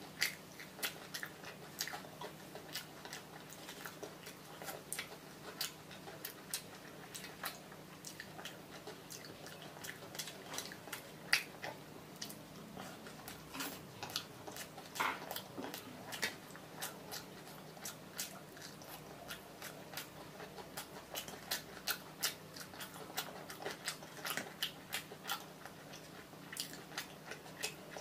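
Close-miked chewing and mouth sounds of someone eating fried fish and rice by hand: many sharp, irregular clicks.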